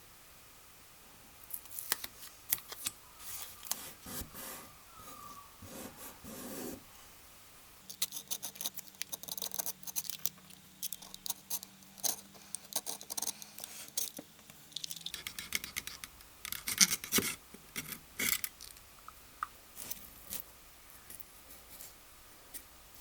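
Irregular clicks, taps and scrapes of small metal hand-plane parts being handled and worked on a bench, coming in bursts with short pauses; a faint low hum sits under the middle stretch.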